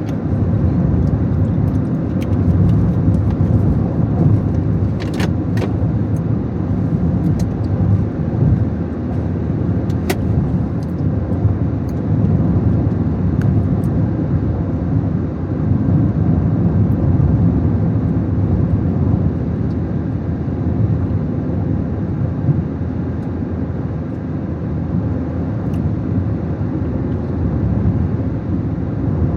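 A car driving, a steady low rumble of engine and road noise, with a few sharp clicks about five and ten seconds in.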